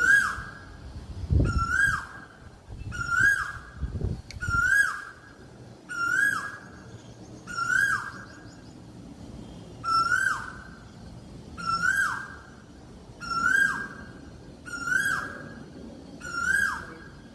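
Asian koel (koyal) calling. It gives the same short note over and over, about every second and a half, each note rising slightly and then dropping sharply.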